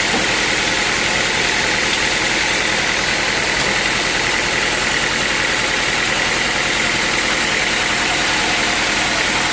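Sawmill machinery running steadily: a continuous, even mechanical noise with a steady high whine in it and no breaks.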